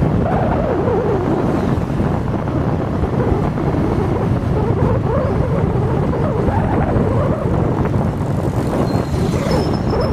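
Steady road and vehicle engine noise on a highway, with wind on the microphone. A faint high-pitched tone sounds briefly near the end.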